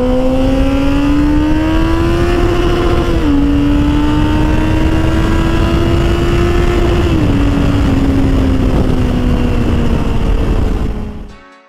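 Motorcycle engine accelerating through the gears: the revs climb, drop with an upshift about three seconds in, climb again and drop with a second upshift about seven seconds in, then ease off, under a heavy low rumble. The sound fades out near the end.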